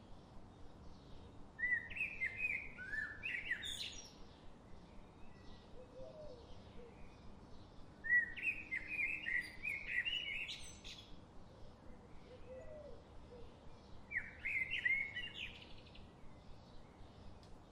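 Songbird singing three warbled phrases about six seconds apart, each lasting two to three seconds, with softer chirps from other birds and a faint low call in between.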